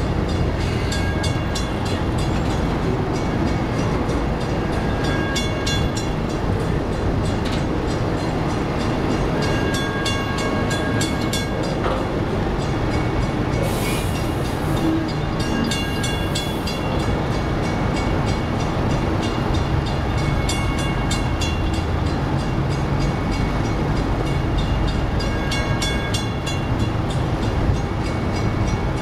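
Double-stack intermodal train's well cars rolling past at close range: a steady noise of wheels on rail. Faint short high ringing tones come and go throughout.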